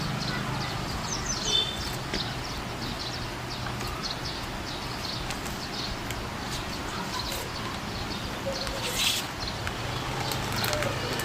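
Small birds chirping in many short, high calls, over a faint low hum, with a brief louder rustling noise about nine seconds in.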